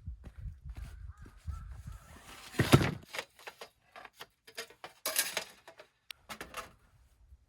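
Harsh cawing bird calls, repeated several times, over a low rumble, with a loud thump a little under three seconds in.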